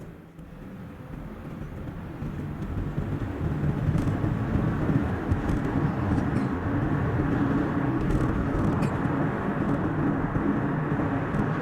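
Car driving on a road, its tyre and engine noise sped up to double speed: a dense, steady rumble that grows louder over the first few seconds and then holds level.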